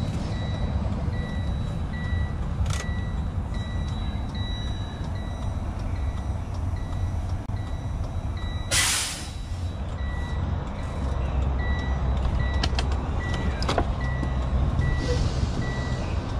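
Semi truck idling with a steady low rumble, while an electronic beep repeats at an even pace. About nine seconds in comes one short, loud hiss of air, typical of the air brakes being worked while a leaking steer brake chamber is checked. A few sharp clicks follow near the end.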